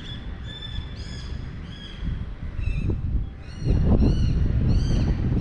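A bird calling over and over in short, arched, high-pitched notes, a few a second, over a low rumbling noise. About three and a half seconds in, the low rumble swells much louder.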